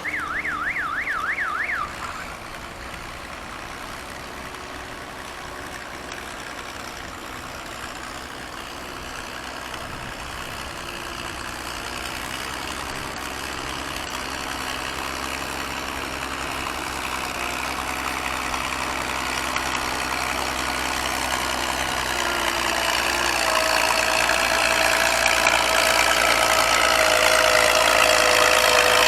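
Farm tractor engine running, growing steadily louder as it comes closer. A short warbling electronic tone sounds for the first two seconds.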